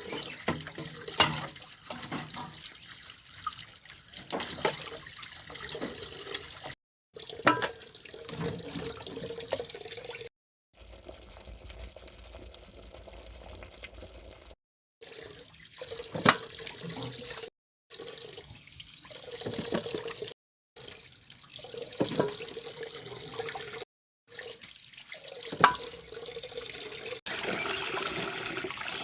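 Sweet potatoes being washed by hand in water: splashing and sloshing with scattered sharp knocks. The sound breaks off abruptly several times and resumes.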